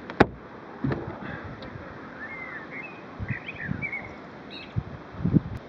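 Small birds chirping in short curved calls, with a few sharp clicks and knocks, the loudest click about a quarter of a second in and low knocks near the end.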